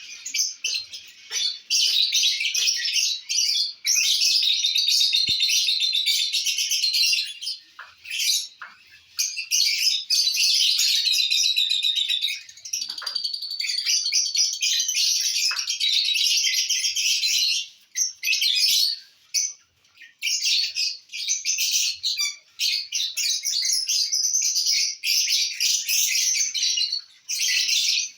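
Lovebirds chattering: rapid, high-pitched chirping in long runs with short pauses.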